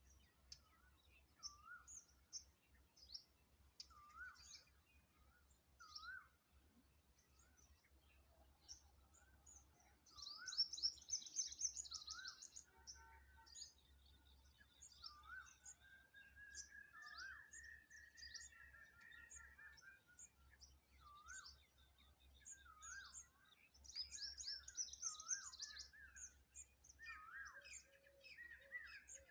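Wild birds calling: a short rising note repeated about once a second, two bursts of fast, high twittering, and one longer drawn-out call midway, over a faint low hum.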